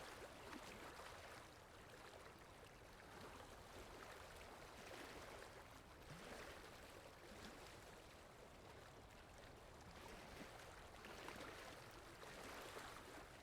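Faint stream water running and babbling steadily, swelling and easing every few seconds.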